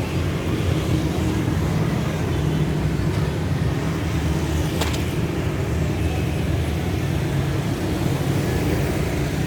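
A steady low engine hum, with one sharp click about five seconds in.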